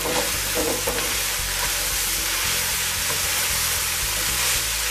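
Meat, onions and peppers frying in hot oil in a cast-iron Dutch oven over charcoal, stirred with a wooden spoon: a steady sizzle.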